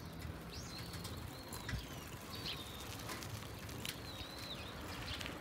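Small birds calling outdoors: a few short, wavering whistled notes spaced a second or so apart, faint over low background noise.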